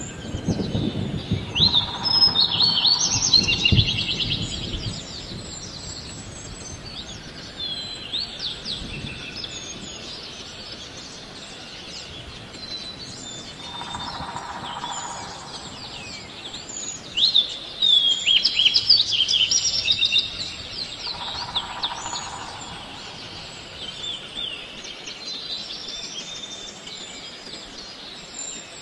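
Forest birds chirping and singing in repeated bursts of quick, high, sweeping notes. A low rumble sounds under them for the first few seconds.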